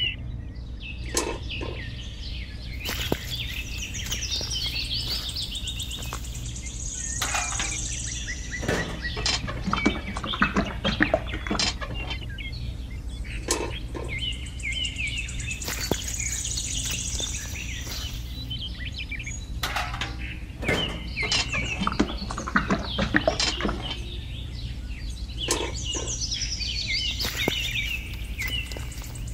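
Birdsong, chirps and trills, in a pattern that repeats about every 13 seconds like a looped background track, over a steady low hum.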